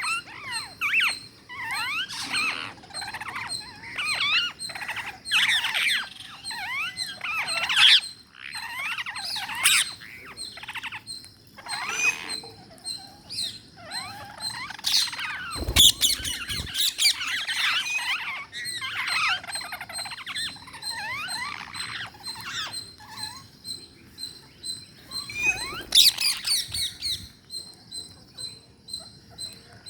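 Ring-necked parakeets calling and chattering in bursts of quick, high, sliding notes, several calls overlapping.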